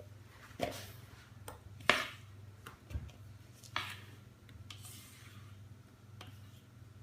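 About five sharp knocks and clinks of kitchen utensils or a metal cake tin being handled on a work surface, the loudest about two seconds in and a duller thump about three seconds in, over a faint steady hum.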